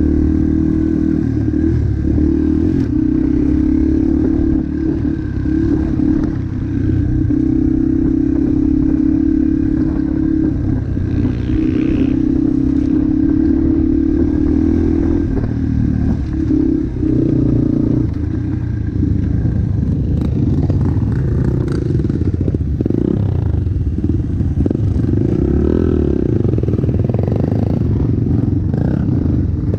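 Motocross motorcycle engine running hard. Its note holds steady through the first half with a few shifts in pitch, then rises and falls unevenly with throttle changes in the second half.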